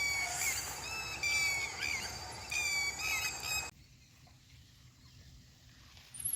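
A bird calling over and over in short, harsh, squawking notes, cut off abruptly a little past halfway; near quiet follows, and a thin high whine starts near the end.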